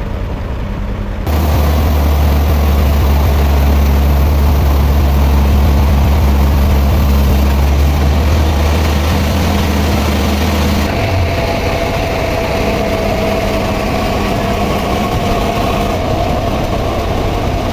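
Heavy engine running steadily with a deep hum. It gets suddenly louder about a second in and changes character about eleven seconds in.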